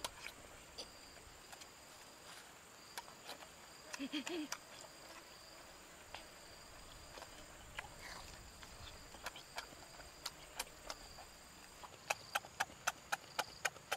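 A person chewing grilled intestine with wet lip-smacking clicks, a short low 'mm' about four seconds in, and a quick run of smacks, about four a second, near the end.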